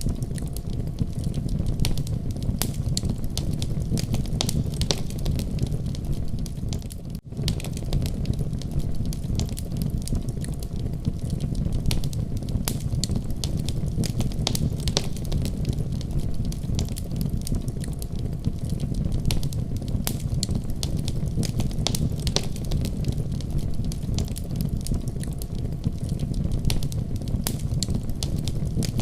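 Fireplace fire crackling and popping, with sharp irregular snaps over a steady low rumble of the flames. The sound briefly drops out about seven seconds in.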